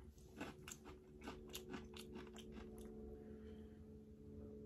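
A person chewing a mouthful of food, heard as a run of soft, faint mouth clicks about three a second that die away after about three seconds, over a low steady hum.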